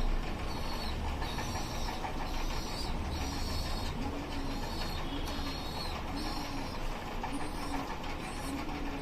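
Pigeons cooing, a short low arched call repeated about once a second, with a high repeated call from another bird and a low background rumble.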